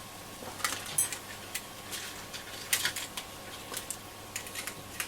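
Scattered light clicks and taps, about a dozen at irregular intervals, from small tools and parts being handled on a transistor radio's circuit board.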